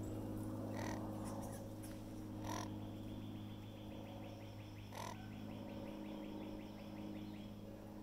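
Three short, harsh, crow-like bird calls about one, two and a half, and five seconds in, over a steady low hum. A fast ticking trill runs through the middle.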